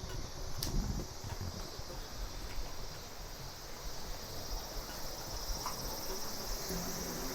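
Insects chirring steadily at a high pitch, with a few faint clicks.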